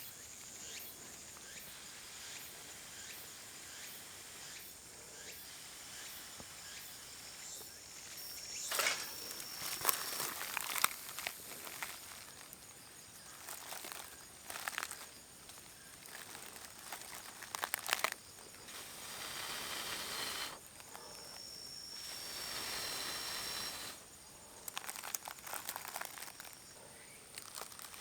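Intermittent rustling and crinkling handling noises in short irregular clusters, with two longer hissing stretches past the middle. Under them runs a faint, steady, high insect drone.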